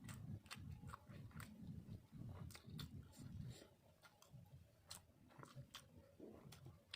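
A person chewing food close to the microphone, with soft wet mouth clicks. The chewing is steady for the first three or four seconds, then grows sparser.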